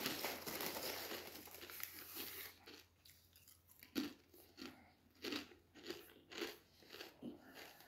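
Potato chips being chewed, faint crunches: a denser crackle for the first couple of seconds, then separate crunches about one or two a second.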